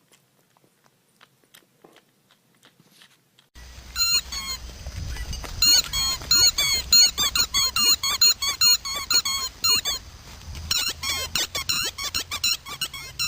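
Faint clicks, then from a few seconds in a rapid, continuous run of loud high-pitched squeaks, several a second, each bending in pitch.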